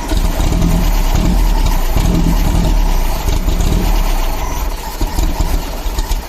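Air-cooled flat-four engine of a 1971 Volkswagen Beetle running roughly after long storage: a steady rumble for about three seconds, then faltering and sputtering unevenly.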